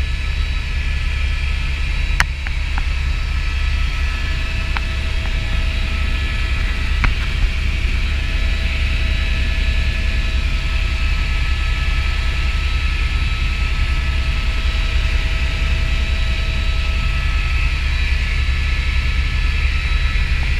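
Helicopter in flight: a steady low rumble with a steady high whine over it, and a few faint clicks in the first seven seconds.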